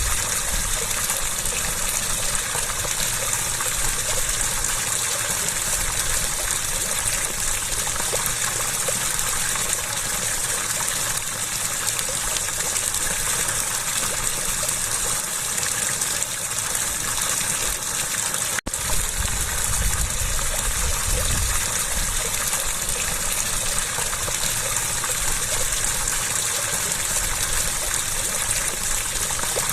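Water rushing and gushing steadily, a continuous splashing flow with no let-up. The sound drops out for an instant about two-thirds of the way through, then carries on unchanged.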